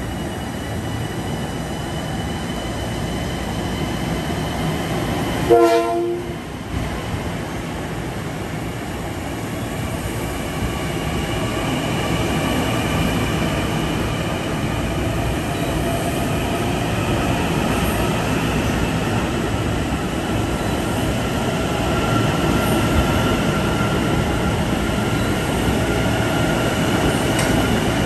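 Long Island Rail Road electric multiple-unit train moving along the platform and gathering speed: steady wheel and rail rumble, with a traction-motor whine that rises slowly in pitch and grows louder. A short horn blast sounds about five and a half seconds in and is the loudest moment.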